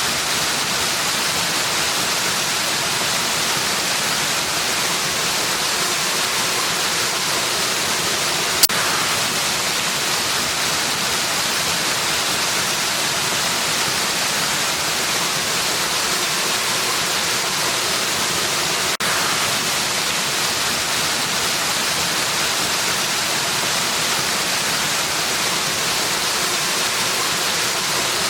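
Waterfall rushing in a steady, even hiss. A single sharp click sounds about a third of the way in, and there is a brief dip about two-thirds through.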